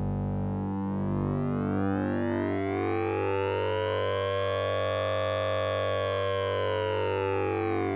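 Synthesized sync and ring-modulation effect from the Orange Vocoder plugin: a steady low tone under a sweep of metallic overtones that rises slowly, peaks a little past the middle and falls again, like a slow siren.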